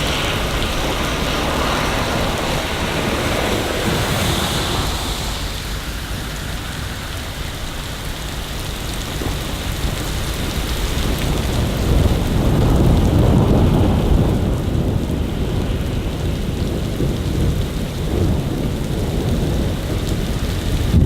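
Steady rain hissing down. From about the middle, a long low rumble of thunder builds and keeps rolling to the end, becoming the loudest sound.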